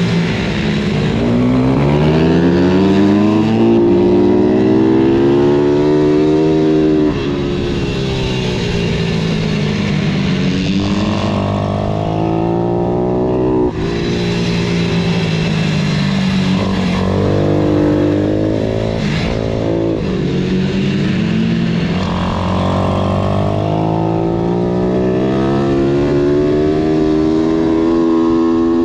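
Pit bike's small single-cylinder engine revving hard and shifting through the gears. The pitch climbs and drops again every few seconds, with sharp cuts at the shifts.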